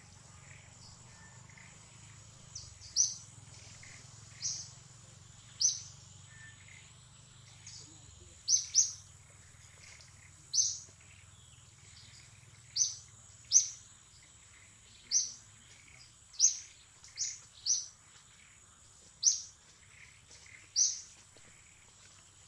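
A wild bird repeating a short, sharp high chirp every second or two, over a thin steady high tone in the background.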